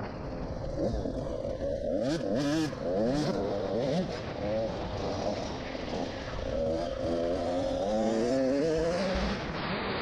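Small motocross bike engine revving up and down over and over as it is ridden round a track, its pitch rising and falling every second or so, over a steady rushing noise.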